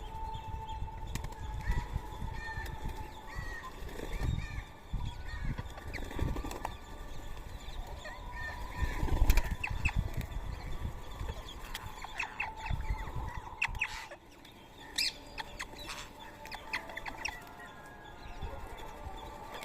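Rose-ringed parakeets flapping their wings in repeated flurries as they land and take off, with short, shrill chirps and squawks scattered among them.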